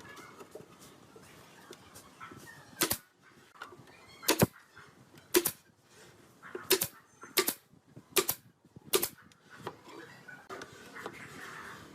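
Seven sharp knocks, irregularly spaced about a second apart, each with a short ring.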